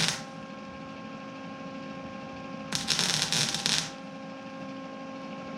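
Lincoln 110 V wire-feed welder running flux-core wire, its arc crackling for about a second in a short tack or bead, starting nearly three seconds in. A steady hum runs underneath, and the tail of an earlier weld cuts off right at the start.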